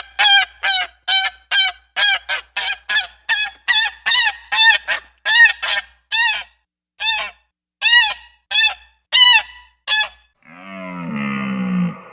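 A goose honking over and over, about two short honks a second, for roughly ten seconds. Near the end a different animal starts a lower, long, wavering call.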